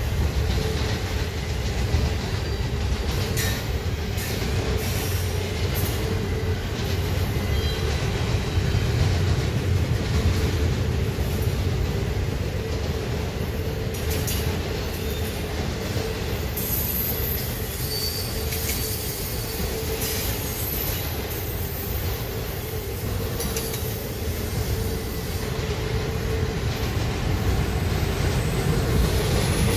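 Double-stack container freight train rolling past: a steady low rumble of steel wheels on rail, with scattered clanks and a brief high-pitched wheel squeal.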